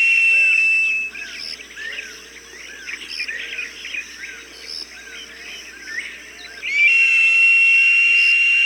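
Hawk calling with long, high, steady whistles, one ending about a second in and another starting near the end, with smaller birds chirping in a regular, repeating pattern in the quieter stretch between them.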